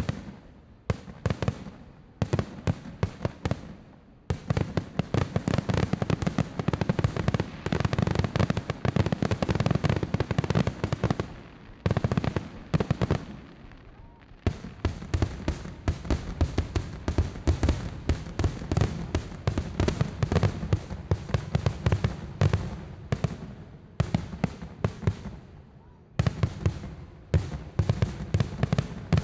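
Fireworks display: a dense barrage of aerial shell bursts, many sharp bangs a second, starting suddenly with a few short lulls.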